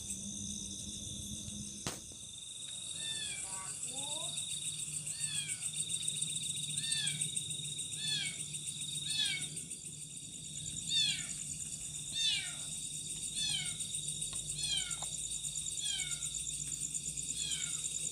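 An unseen animal giving short, high, falling cries about once a second, over a steady chorus of night insects.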